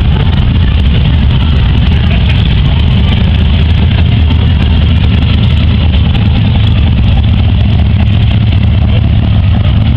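Hot rod engines running at a crawl in a slow drag race, a loud, steady low rumble.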